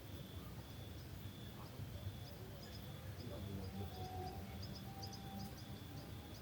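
Crickets chirping in an even rhythm of about one and a half chirps a second, with scattered short high bird chirps over a low outdoor rumble.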